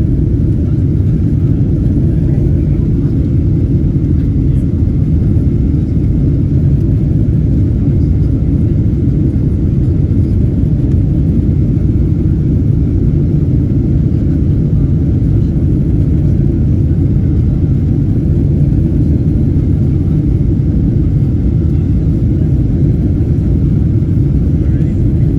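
Wind buffeting a phone's microphone: a loud, steady low rumble that does not rise or fall.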